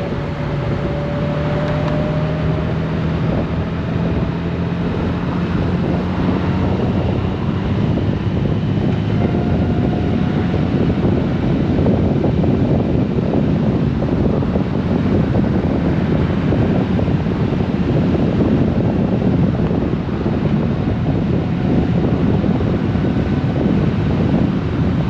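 Honda GoldWing motorcycle riding at road speed, its engine note rising slightly over the first few seconds. Heavy wind noise buffets the microphone and grows stronger partway through.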